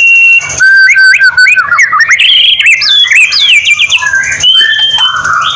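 White-rumped shama (murai batu) singing a loud, rapid, varied song of clear whistles, quick rising and falling slurs and buzzy trills.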